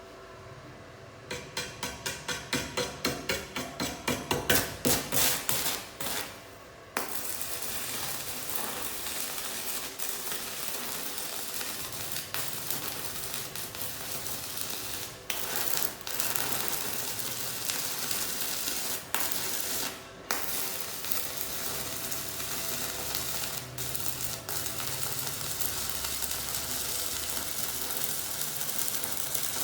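Stick (arc) welding with a Sasuke ZX7-200E inverter welder: the arc gives a steady crackling sizzle that breaks off briefly a couple of times. Before the weld, a quick run of short pulses grows louder.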